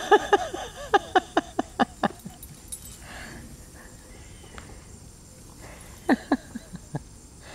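Puppy barking in two quick runs of short barks, one at the start and one about six seconds in.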